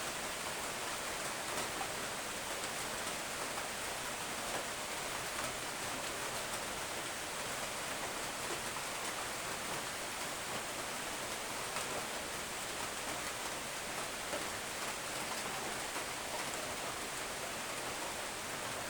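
Steady, gentle rain falling: an even hiss with faint scattered drop ticks, unchanging throughout.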